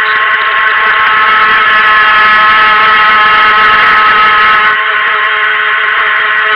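Helion Rivos RC boat's stock brushed electric motor running at speed, a loud steady whine, easing off slightly about five seconds in.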